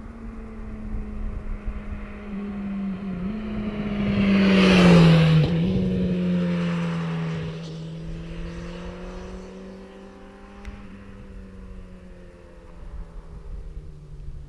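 Honda CB1000R inline-four on its stock exhaust riding past at a steady throttle. The note swells to its loudest about five seconds in, drops in pitch as the bike goes by, then fades away.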